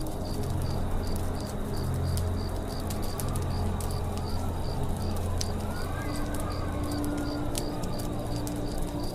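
Campfire crackling with sparse sharp pops, over forest ambience: an insect chirping in an even pulse a few times a second, and a bird call that rises and falls about two thirds of the way through. A low steady hum runs underneath.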